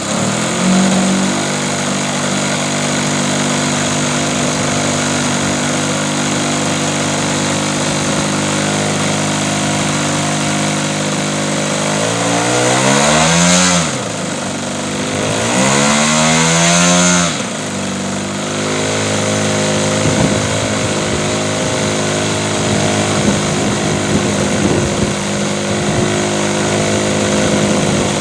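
Small gasoline engine of about 35cc running steadily, revved up twice about twelve and fifteen seconds in, each time the pitch rising then falling back to idle.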